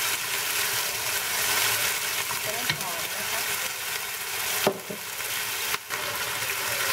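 Chicken pieces sizzling in soy sauce in a ceramic nonstick frying pan, stirred with a wooden spatula. A steady frying hiss, with one sharp knock about two-thirds of the way through.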